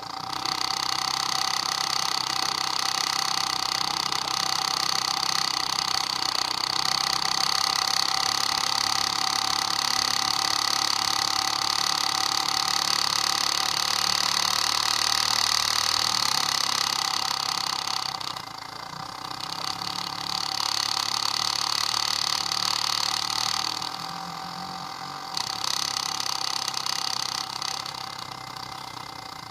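Electric fuel pump running on with a steady high whine that does not shut off, because it is not building pressure: the sign of a bad pump. It dips quieter twice, briefly.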